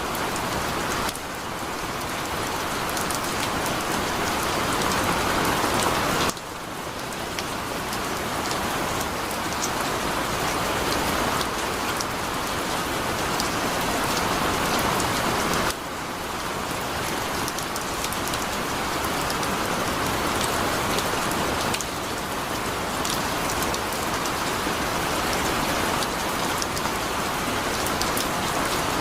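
Heavy rain pouring steadily, with drops pattering on a surface. The level dips suddenly a few times and builds back up.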